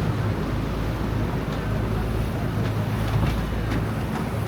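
River boat's engine running steadily with a low, even hum, with wind noise on the microphone.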